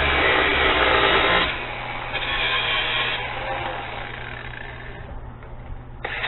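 Angle grinder cutting through the steel wire-rope ends of a come-along cable held in a vise. The cut is loudest for the first second and a half, then eases off and falls lower about five seconds in, before biting in hard again near the end.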